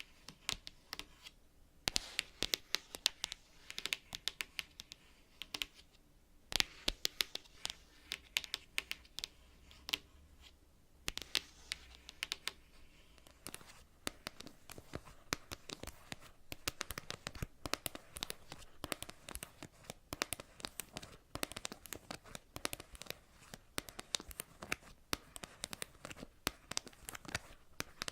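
Long natural fingernails tapping on cards in quick irregular runs of sharp clicks, with a few short pauses.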